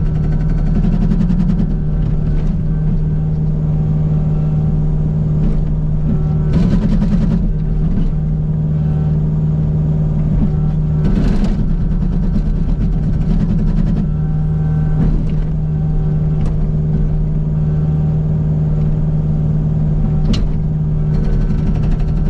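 Kubota U55 mini excavator's diesel engine running steadily under load while the Agrotk 680 hydraulic hammer breaker pounds a rock, with a few sharper bursts of hammering.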